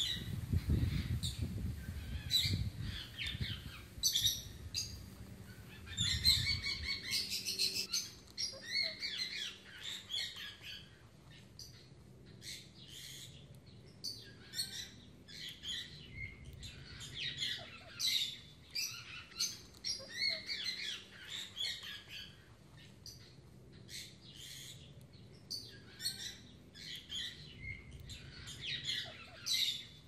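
Birds chirping and tweeting in many short, repeated calls, with a low rumble over roughly the first seven seconds.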